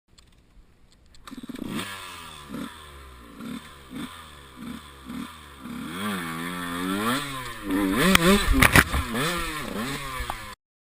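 Enduro motorcycle engine revving in short blips, its pitch rising and falling about once a second, then in longer rising and falling revs. Several sharp knocks and clatter about eight seconds in are the loudest part.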